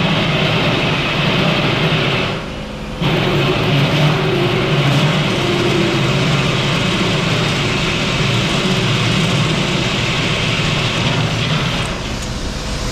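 Power drill running under load as it bores the fitting holes in the new fuel tank, a steady machine noise that stops briefly about two and a half seconds in and then carries on.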